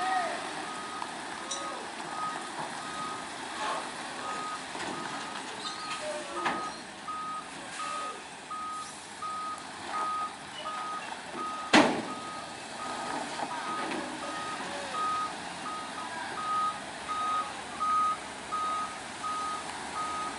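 Truck reversing alarm beeping steadily at one pitch, roughly two beeps a second, with a single sharp knock about twelve seconds in.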